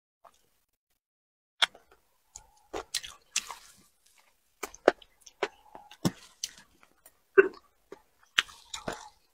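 Close-miked chewing of fried fish and shrimp: a string of sharp crunches and wet mouth clicks at irregular intervals, beginning after a quiet first second and a half.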